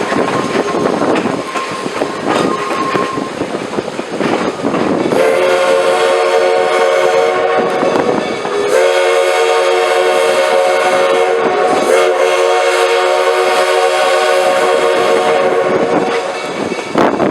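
Steam whistle of a 1928 Baldwin 2-6-6-2T articulated locomotive sounding a chord of several notes: one blast of about three seconds, a short gap, then a long held blast, as it whistles for road crossings. Before the whistle, rough wind noise on the microphone and the train running.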